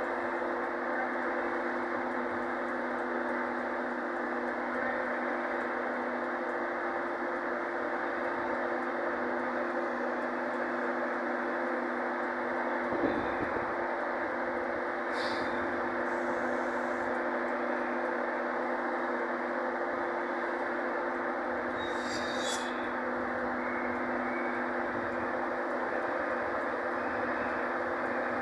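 Steady drone of a train standing at a station platform, with its engine or equipment running evenly. A single short thump comes about halfway through, and there are two brief high-pitched squeaks later on.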